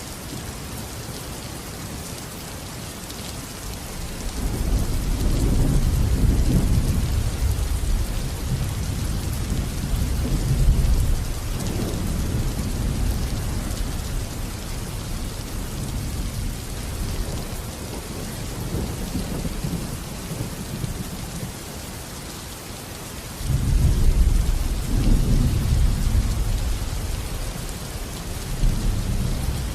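Steady rain falling, with rolling thunder rumbling through it twice: a long swell about four seconds in that fades out over several seconds, and a second rumble that starts abruptly near the end.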